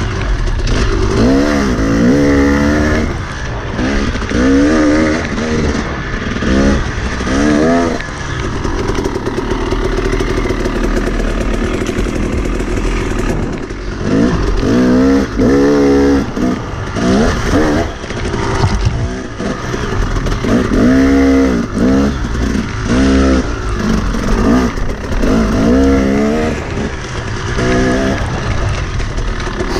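Enduro dirt bike engine revving up and down over and over as the rider works the throttle, with a steadier stretch of held revs about ten seconds in.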